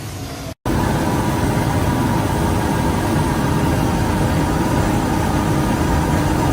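A steady, loud, low mechanical rumble like a heavy engine running, with a few faint steady tones above it. It starts abruptly after a short silent break about half a second in.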